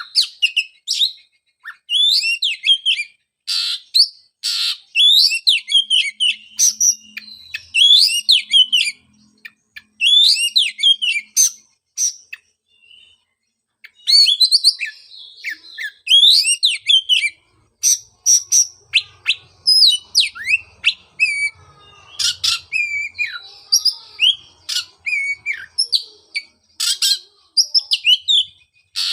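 Oriental magpie-robin singing: a fast, varied run of whistled phrases with sweeping and warbling notes, broken by sharp clicks, with a short break about twelve seconds in.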